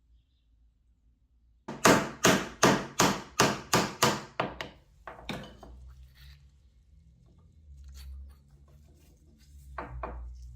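A quick run of about ten sharp knocks, about three a second, then a few faint clicks and two more knocks near the end.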